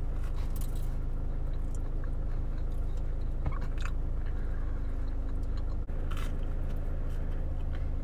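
A person biting into and chewing crunchy toasted avocado toast, with a few crisp crunches standing out, over a steady low hum inside a car's cabin.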